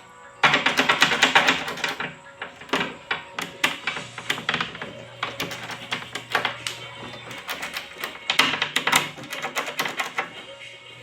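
Door knob mechanism being worked back and forth, its metal parts clicking and rattling rapidly in bursts, loudest about half a second in and again around eight seconds in.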